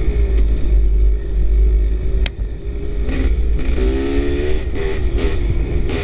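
Off-road dirt bike engine running under changing throttle on a trail ride, revving up around four seconds in, over a heavy low rumble. A single sharp click about two seconds in.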